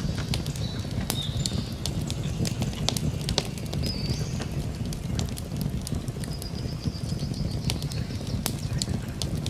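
Campfire burning: wood crackling with many sharp pops and snaps over a steady low rumble of flames. Short high bird chirps and a brief trill sound above it.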